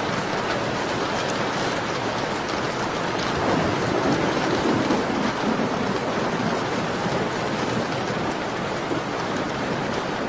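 Steady rain pattering on a window glass, swelling briefly about four seconds in, with faint ticks like fireplace crackles in the background.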